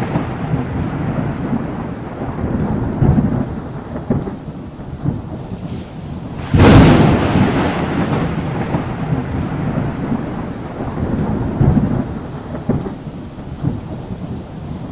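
Thunderstorm: rolling thunder rumbling over steady rain, with a sudden loud thunderclap a little under halfway through that rolls on and slowly fades.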